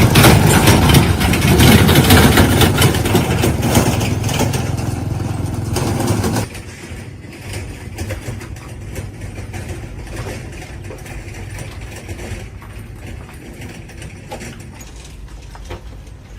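A motor or engine running loudly with a rough, noisy sound, then cutting abruptly to a quieter steady running noise about six seconds in.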